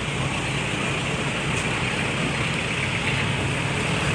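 Steady road traffic and engine noise, a continuous low rumble with a noisy wash above it.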